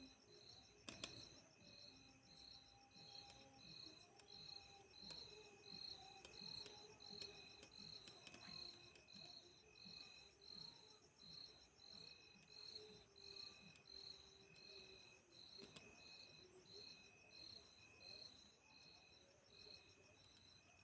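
Faint night insect chorus: crickets chirping in even pulses about one and a half times a second over a continuous high, fine trill.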